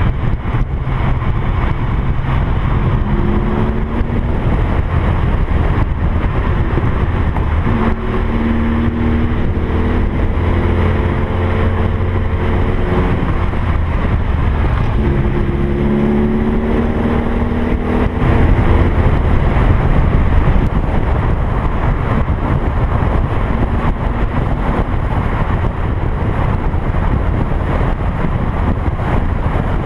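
TVR Cerbera 4.2's engine pulling the car along at road speed, with a deep steady drone and several stretches where its note climbs as the car accelerates, louder for a couple of seconds past the middle. Wind and tyre noise mix in, as heard from a camera mounted outside beside the front wheel.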